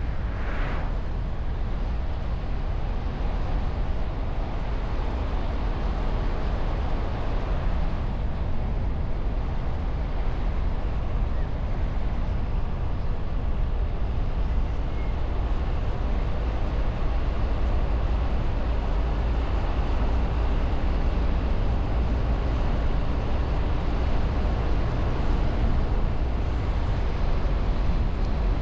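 Steady road and wind noise of a moving car picked up by a bonnet-mounted camera behind a wind muff: a constant low rumble of tyres and engine with airflow hiss over it, and a brief higher hiss about half a second in.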